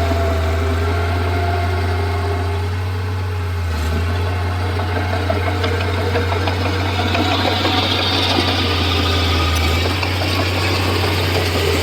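Bulldozer diesel engine running steadily, with more clatter and hiss in the second half.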